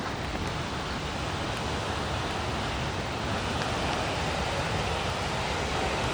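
Waterfall and creek rushing: a steady noise of falling water that grows slowly louder.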